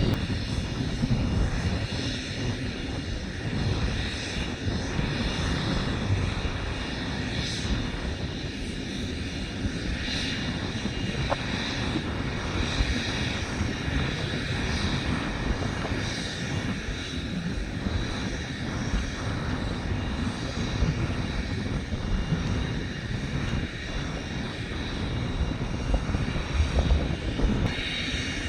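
Jet engines of an Airbus A330 airliner running: a steady rumble with a hiss on top.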